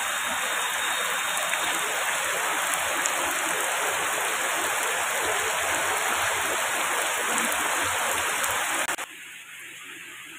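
Heavy rain pouring onto paving stones and splashing on the wet tiles, a dense steady hiss. About nine seconds in it drops abruptly to a much fainter rain sound.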